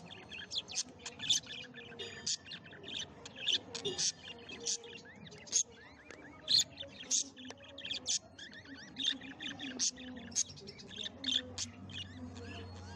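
Small pet parrots chirping: a steady stream of short, high chirps, a couple each second at irregular intervals.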